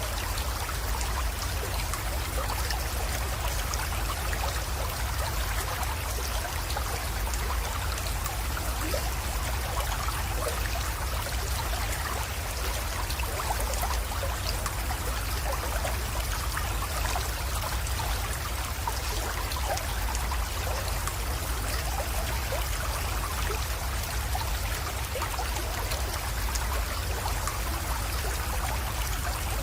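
A small creek trickling and flowing into a pond, a steady rush of water with many small splashes and drips, over a steady low rumble.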